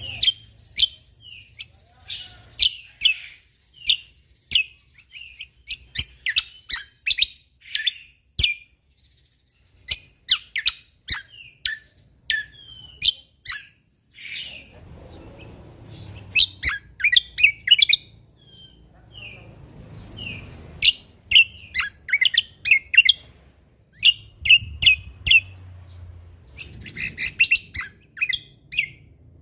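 Cucak kombo (kecial kombok) songbird singing in rapid runs of sharp, high chirps and short gliding notes, broken by a few brief pauses, with a faint low rumble underneath at times.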